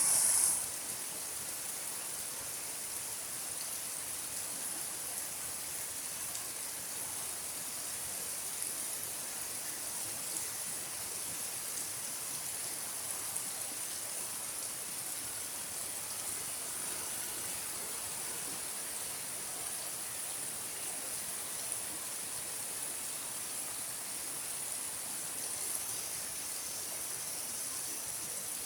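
Steady rain falling, an even hiss with no breaks, a little louder in the first half second.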